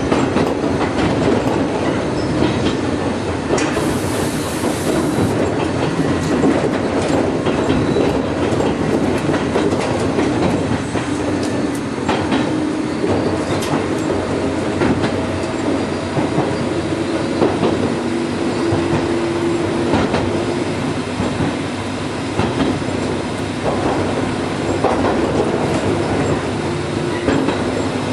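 Gakunan Railway 7000 series electric railcar running along the line, heard from inside the car: a steady rumble of wheels on rails with a low hum and irregular clicks over the rail joints. A short high hiss comes about four seconds in.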